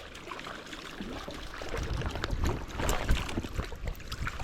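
Fast-running stream water, with irregular splashes and small knocks in the water, busier around the middle.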